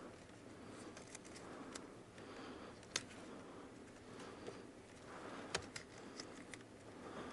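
Faint handling noise from hands working on car wiring, with a few sharp clicks; the loudest comes about three seconds in and another a little past five seconds.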